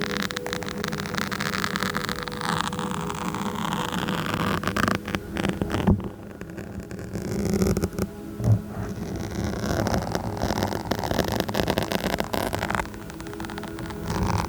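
Fingers scratching and rubbing directly on a microphone: continuous scratchy crackling noise, with two louder bumps about six and eight and a half seconds in.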